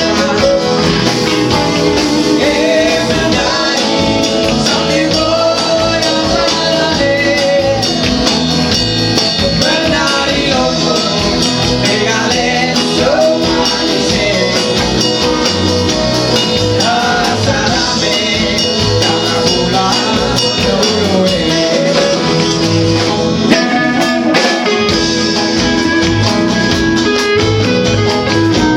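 Live band playing a pop song with a steady beat and melody lines, in a passage between sung verses.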